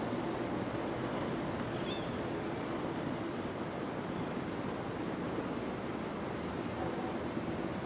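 Steady rush of gusty wind, with a faint, brief high chirp about two seconds in.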